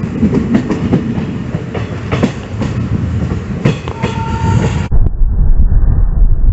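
Passenger train running on the track, wheels clattering with repeated sharp knocks over the rail joints. About five seconds in the sound cuts suddenly to a duller, heavier low rumble.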